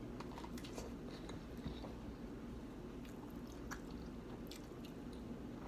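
Faint chewing, with small scattered mouth clicks and smacks at irregular moments.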